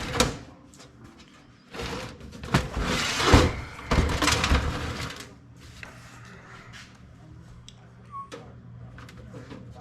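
Metal parts of a desktop computer case being handled in a scrap teardown: several bursts of scraping and rattling in the first five seconds. Then a quieter stretch with scattered light clicks over a faint steady low hum.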